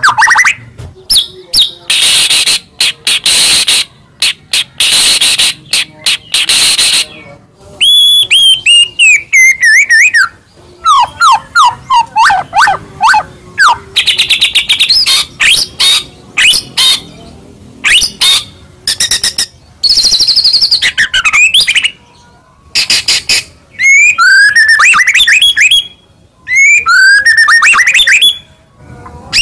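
White-rumped shama (murai batu) in full song, loud and close: whistled phrases sliding down and up in pitch, broken by harsh, rasping bursts.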